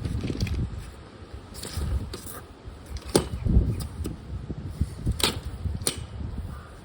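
Gusty wind buffeting the microphone, a low rumble that rises and falls, with three sharp clicks in the second half.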